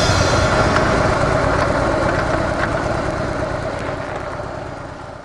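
Harley-Davidson CVO Softail motorcycle's V-twin engine running on stock mufflers, a steady dense sound that fades out over the last couple of seconds.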